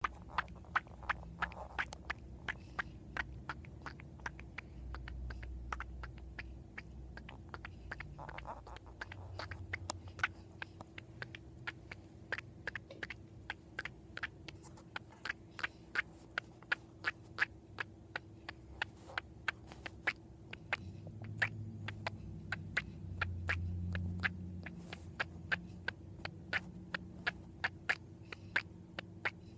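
Domestic cat chattering in her sleep: a long run of short, sharp clicks at about two to three a second, the same noise she makes at squirrels, which her owners take for dreaming about squirrels.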